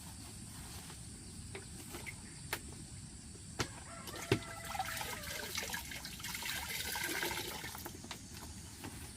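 Chicken calls lasting about three seconds, starting about four seconds in, preceded by a few sharp knocks.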